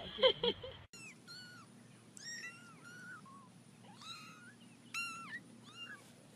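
Kitten mewing: a string of short, high-pitched arching mews, several a second at times, after a brief lower-pitched sound in the first second.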